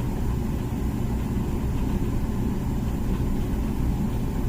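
Comfee dishwasher running partway through its wash cycle, a steady low hum.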